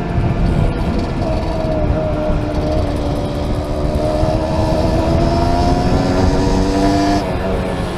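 Small motorcycle engine under way, heard from a helmet camera, its pitch rising slowly as it pulls, then dropping suddenly near the end, with wind rumble on the microphone.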